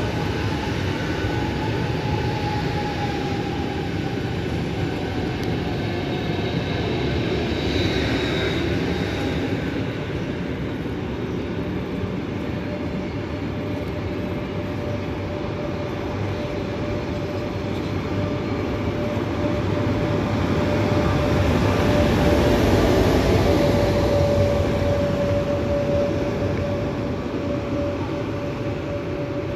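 Long double-deck passenger train rolling slowly along a station platform, with a steady rumble of wheels on rail and faint high-pitched wheel squeals during the first ten seconds. A steady hum sets in about halfway through, and the noise swells and then eases off.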